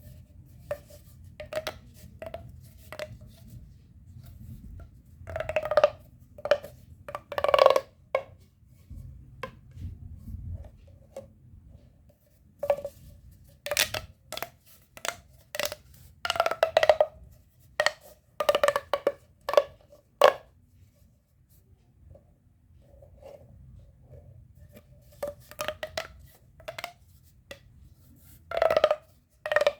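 Pop-it fidget tubes being pressed and popped: irregular hollow pops and clicks, some in quick clusters, with a quieter pause about two-thirds through.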